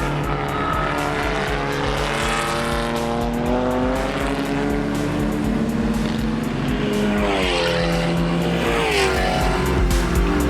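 Racing car engines running hard, their pitch falling and rising through gear changes, with the biggest sweeps near the end. Background music with a steady beat plays under them.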